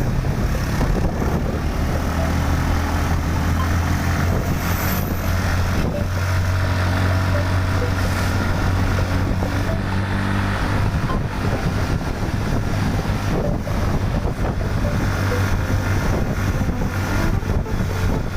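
Motor vehicle engine running steadily with road and wind noise while on the move.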